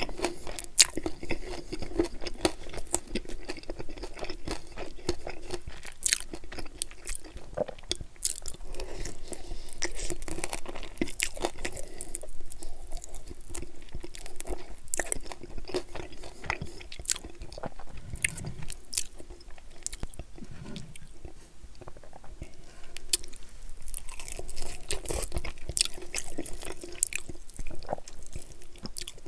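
Close-miked chewing and crunching of chicken wings, full of small sharp crackles and clicks as the skin and meat are bitten and chewed.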